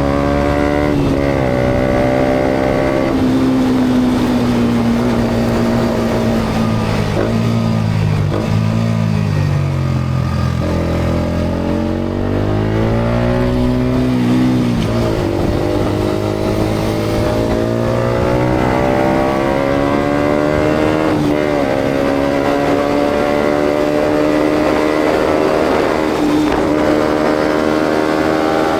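Yamaha MT-125's single-cylinder engine through an aftermarket GPR exhaust while being ridden. The pitch climbs under acceleration and drops quickly at gear changes, about a quarter of the way in, halfway and two-thirds of the way in. It sinks away as the bike slows a little before the middle, then climbs again through the gears.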